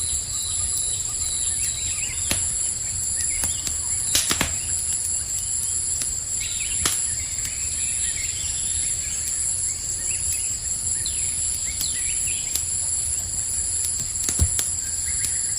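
Campfire crackling, with a handful of sharp pops (one a little before halfway, another near the end) over a low steady rumble of flames. Behind it, crickets chirp in a steady high shrill.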